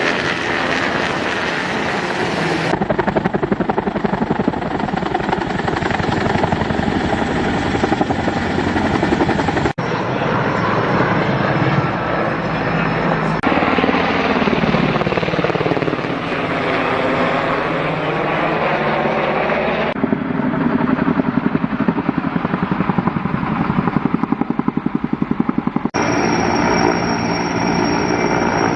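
Firefighting helicopters, their rotor blades chopping steadily across a series of clips, with a sweeping change in tone as one passes close by near the middle.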